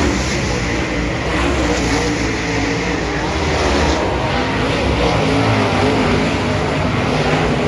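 Dirt-track race car engine at racing speed, its revs rising and falling over and over.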